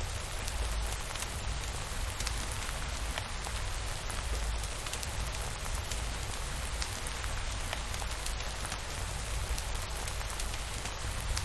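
Steady rainfall with scattered small drop ticks, over a continuous low rumble.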